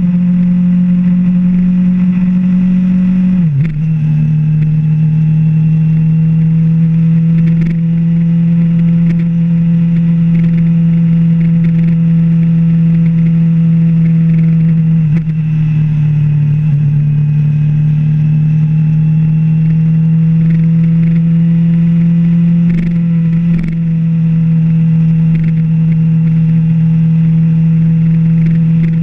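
Suzuki GSX-R750's inline-four engine running at a steady cruise on the road. Its note drops sharply with an upshift about three and a half seconds in, then dips briefly twice later.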